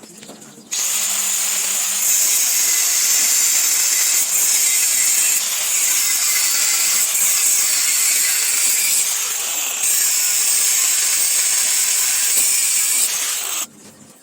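Handheld electric power tool running for about thirteen seconds, switching on just after the start and cutting off sharply near the end. The sound is a loud, high, hissing whine whose pitch sags and recovers several times as the tool is pressed onto the work.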